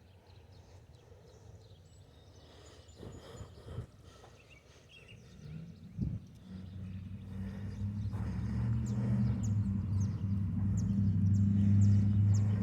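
Diesel locomotives of an approaching freight train: a steady low engine drone comes in about halfway through and grows steadily louder toward the end.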